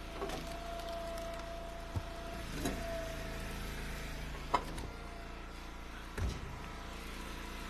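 Wood splitter's engine running steadily, with a steady hydraulic whine through the first two and a half seconds. Three or four sharp knocks of split firewood pieces landing as they are thrown onto the pile.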